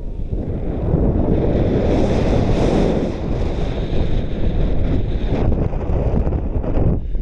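Strong wind buffeting the microphone in gusts, loudest between about one and five seconds in, then easing near the end.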